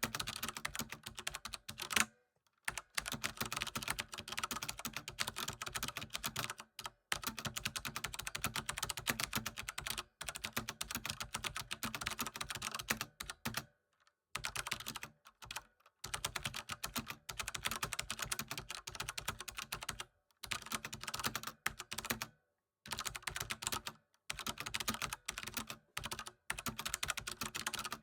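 Fast typing on a computer keyboard: a dense, continuous run of key clicks, broken every few seconds by brief pauses.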